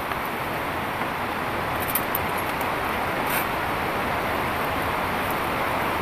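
Heavy rain falling steadily, a dense even hiss with a few faint ticks about two and three seconds in.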